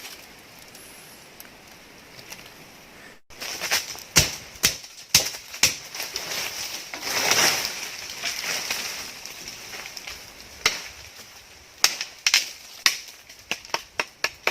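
A soft steady hiss. About three seconds in it cuts off and gives way to a run of irregular sharp knocks and snaps, with a longer rustle midway.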